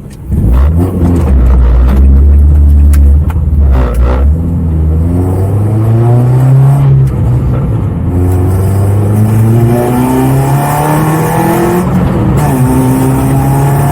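Renault Clio track car's engine accelerating hard, heard from inside the cabin. The revs climb, drop back at a gear change about eight seconds in and again near twelve seconds, then climb once more.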